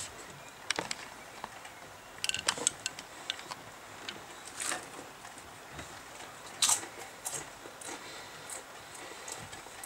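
Someone chewing puffed popcorn chips: scattered short crunches and clicks at irregular intervals.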